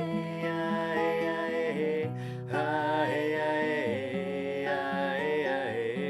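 Devotional medicine-song music: a voice sings a gliding melody on wordless vocables over plucked acoustic guitar, with a brief break about two seconds in.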